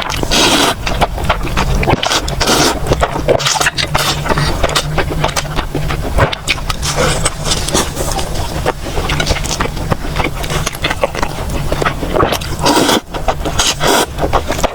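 Close-miked eating sounds: chewing, with a dense, irregular run of wet clicks and crackles.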